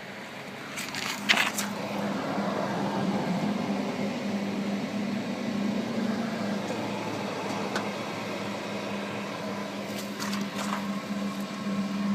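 Steady low mechanical hum that rises a little about a second in, with a sharp click just after that and a few lighter clicks near the end.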